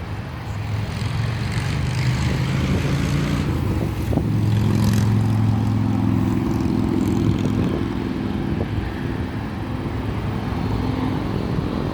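Jet aircraft engines running, with a low hum that swells about four seconds in and then slowly eases off.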